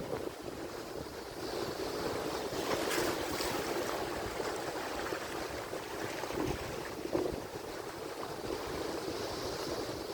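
Atlantic surf: waves breaking and washing on the shore in a continuous rushing hiss that swells about two to four seconds in, with some wind buffeting the microphone.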